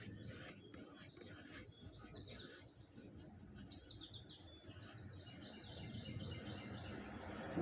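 Faint bird chirping: a quick run of short, high, falling notes about three seconds in, over a quiet background.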